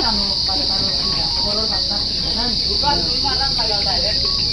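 Insects, crickets by their steady high-pitched chirring, droning without a break, over the low murmur of many people talking at once.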